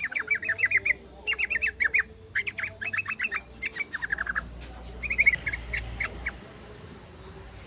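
Yellow-vented bulbul (trucukan) singing: rapid chattering runs of short downward-slurred notes in about five bursts, falling away about six seconds in.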